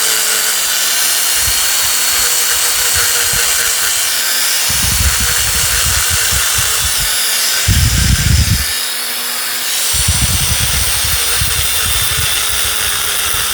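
Small handheld rotary power tool running on low speed, lightly grinding old spot-weld remnants off the metal end of an 18650 cell. It whirs steadily, with a rougher grinding sound each time the bit bears on the cell: about five seconds in, again near eight seconds, and through the last few seconds.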